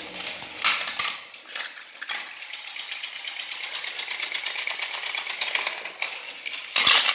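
Battery-powered Trackmaster toy engine running along plastic track, its small motor and gears making a fast, even clatter. There are two short, louder noisy bursts, one under a second in and one near the end.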